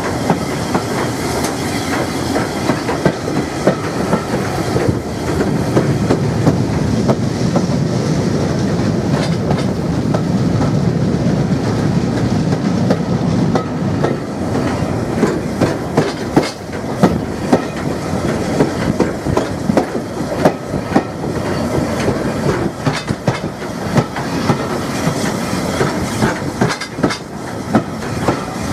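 Passenger train running at speed, heard from beside the carriage: a steady rumble with the wheels clicking irregularly over rail joints.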